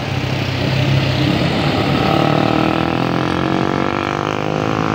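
A heavy vehicle's engine running under load on a climbing bend, its pitch slowly rising from about two seconds in.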